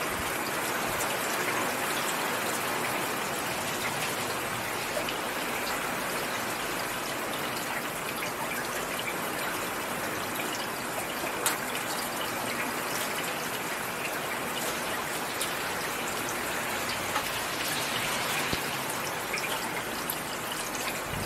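Heavy rain falling steadily: a dense, even hiss with a few sharp ticks of single drops.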